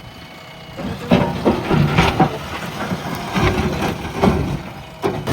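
JCB backhoe loader's diesel engine working under load, getting louder about a second in, with irregular knocks and clatter from the machine at work.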